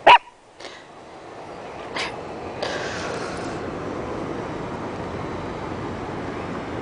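Dog making odd vocal noises: a sharp yip right at the start, a couple of short huffs and a breathy snort, then a long steady low rumbling grumble.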